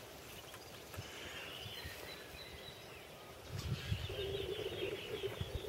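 Faint outdoor ambience with distant birds chirping.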